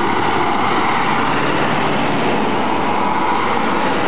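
A Class 150 Sprinter diesel multiple unit passing close by, a loud, steady noise of engine and wheels on the rails.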